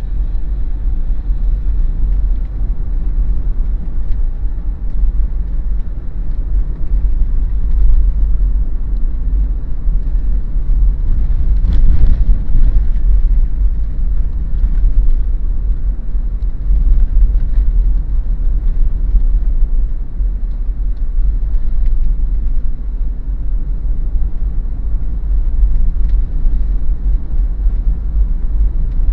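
Steady low rumble of a Daihatsu Terios compact SUV driving along: road and engine noise heavy in the bass, with a brief louder swell about twelve seconds in.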